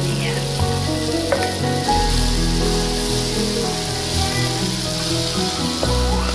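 Sliced tomatoes and green chilies sizzling in hot oil in a frying pan of fried dried shrimp as a spatula stirs them, with background music underneath.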